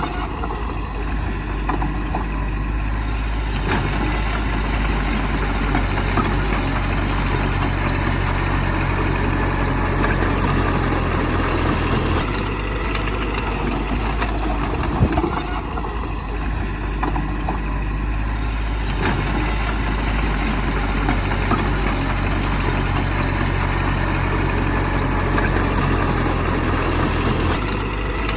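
Heavy diesel earthmoving machinery running steadily, its engine note rising and easing at times, with a single sharp knock about halfway through.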